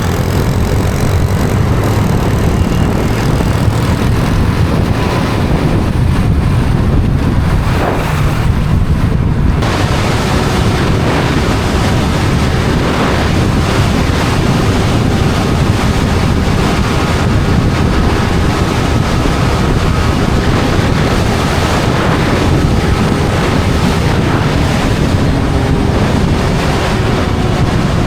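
Heavy wind rush on the microphone from a motorbike ride at speed, with the bike's engine hum faintly beneath it.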